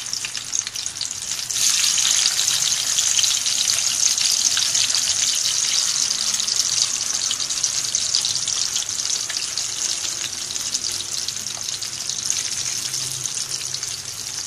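Keema-stuffed bitter gourds sizzling as they deep-fry in hot oil in a karahi, a dense steady crackle. The sizzle jumps louder about a second and a half in and eases slightly near the end.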